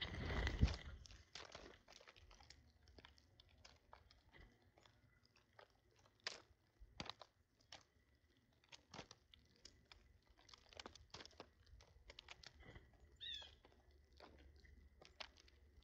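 Small birds pecking at and cracking seed, heard as irregular sharp taps and crunches, with a louder rustling burst at the start and one brief chirp about 13 seconds in.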